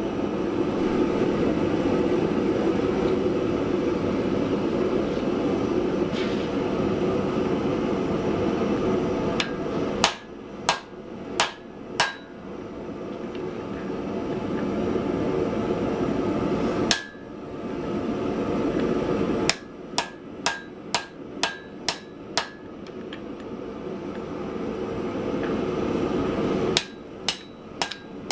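Hand hammer striking hot steel on an anvil, drawing out the end of a small forged piece, each blow ringing briefly. The blows come in bouts: four, then a single one, then a quick run of about eight, and more near the end, with a steady rushing noise between them.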